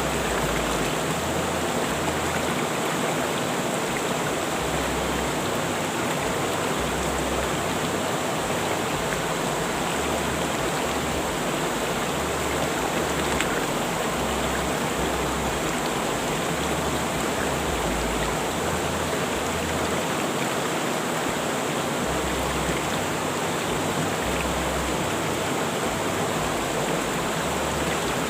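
Rushing river water flowing in a steady, even rush.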